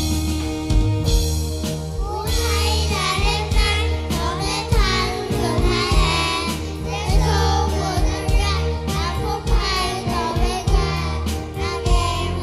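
Group of children singing a Christmas song over instrumental music with a steady beat. The voices come in about two seconds in, after an instrumental lead-in.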